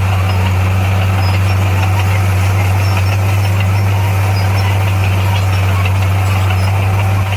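Diesel engine of a heavy earthmoving machine running steadily with a deep, even hum.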